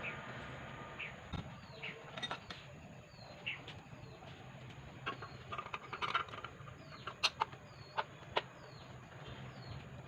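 A bird chirping over and over, short high notes that drop in pitch, about two a second. Several sharp clicks and knocks sound in between, loudest in the second half.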